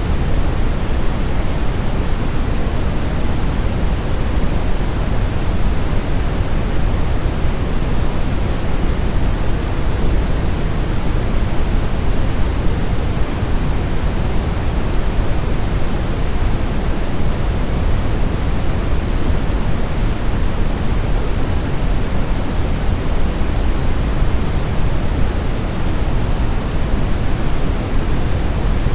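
Steady brown noise: a deep, even rumbling hiss weighted toward the low end, with no changes or events.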